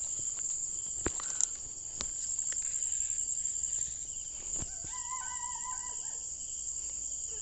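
Steady high-pitched chorus of crickets and other night insects, with a few sharp clicks scattered through it and a brief faint stepped call about five seconds in.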